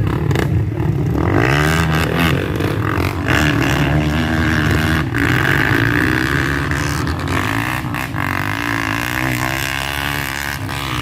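Dirt bike engines running and revving, the pitch rising and falling repeatedly, with a higher engine note joining about a second in.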